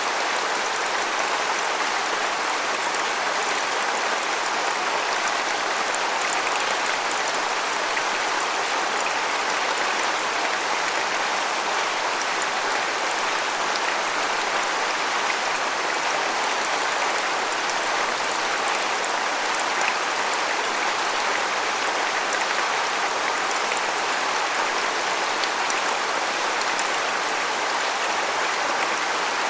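Waterfall: water falling and splashing in a steady, unbroken hiss with little deep rumble.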